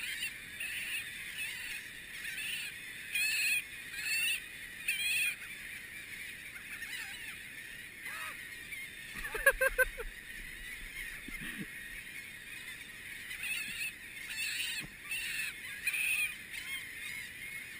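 Gulls squawking in short, repeated calls, with a louder, closer burst of calls about halfway through.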